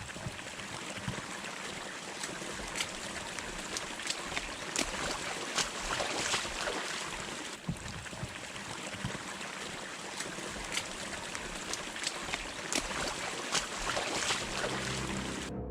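Rain falling steadily: a rushing hiss peppered with frequent, irregular sharp taps of drops. The sound cuts off abruptly just before the end.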